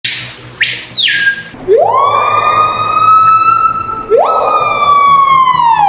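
Screaming piha calling with loud ringing whistles. A high whistle slides down first, then two long notes each sweep sharply up, hold and sag slowly in pitch.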